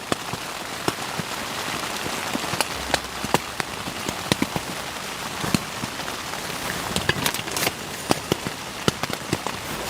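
Rain falling on a tent: a steady hiss with many irregular, sharp drop taps.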